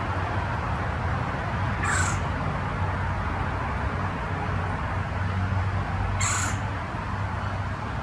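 A bird gives two short, shrill calls about four seconds apart, over a steady low hum of background noise.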